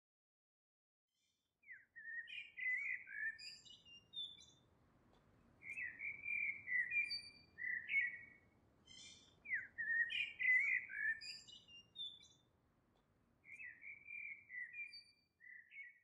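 A songbird singing in warbling phrases of two to three seconds each, four phrases with short pauses between them, starting after a moment of silence, over a faint low background hiss.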